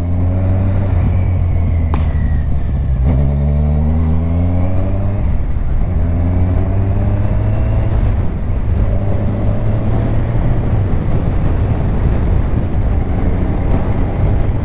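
Kawasaki Ninja 1000's inline-four engine pulling away through the gears: the pitch climbs, drops at each upshift and climbs again, about four times, then holds steadier near the end.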